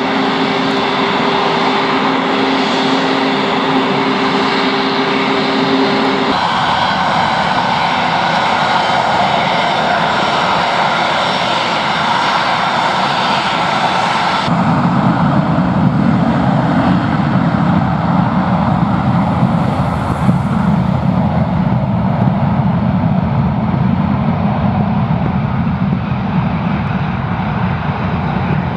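Embraer KC-390's twin IAE V2500 turbofan jet engines running at takeoff power, a loud continuous jet noise with a steady whine. About halfway through, the whine and hiss abruptly give way to a deeper, heavier rumble.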